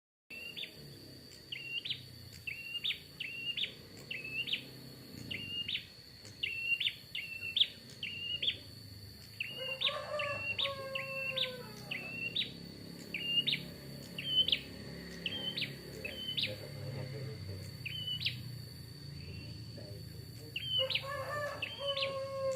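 A prinia (prenjak) calling, a short sharp high note repeated about twice a second, pausing for a few seconds before starting again near the end. A rooster crows twice, once about ten seconds in and again near the end, over a steady high whine.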